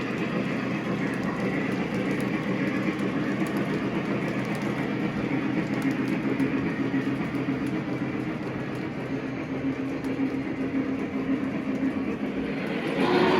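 Model train running on a layout track: a steady rumble of motor and wheels, easing a little past the middle and getting louder near the end.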